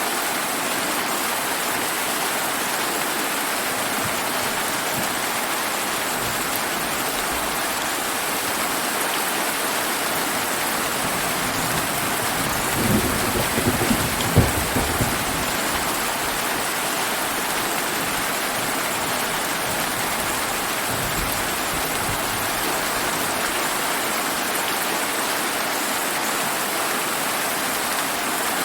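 Steady heavy rain falling on surfaces. Thunder rumbles in about halfway through, with a sharp crack at its peak, and a fainter low rumble follows some seconds later.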